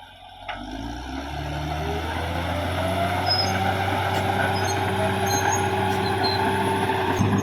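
Caterpillar D6R XL bulldozer's diesel engine revving up from low over about two seconds, with a whine rising in pitch, then running steadily at high revs.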